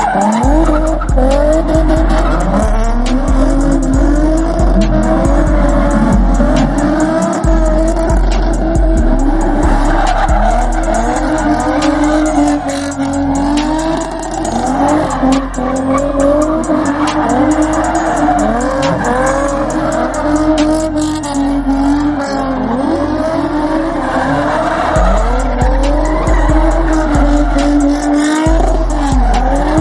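Car engine held at high revs with tyres squealing in a burnout, the pitch wavering up and down throughout. A heavy music bass line runs underneath.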